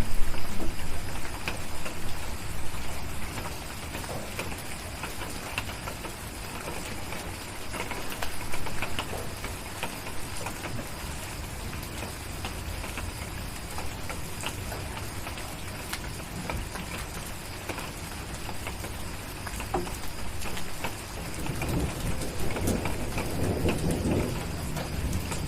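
Steady rain pattering, with scattered sharp crackles from a wood fire and rolling thunder: a loud rumble at the start, and another building near the end.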